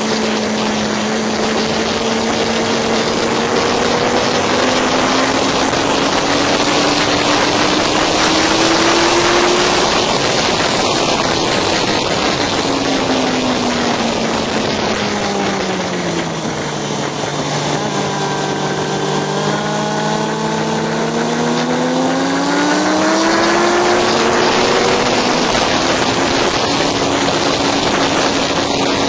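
Motorcycle engine on a racetrack lap, heard from on board over heavy wind rush: the revs climb for several seconds, drop away smoothly to a low steady note held for about six seconds, then climb again.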